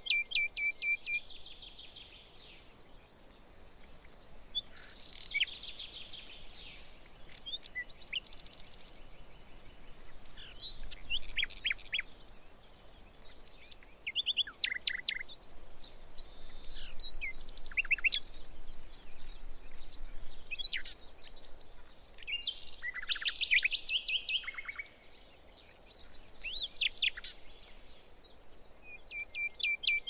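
Songbirds singing, several at once: a varied mix of chirps, trills and quick whistled notes coming in bunches with brief lulls.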